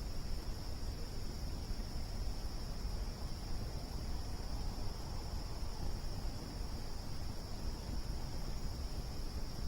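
Campfire burning with a dense low crackle and rumble, under a steady, unbroken high-pitched chorus of insects.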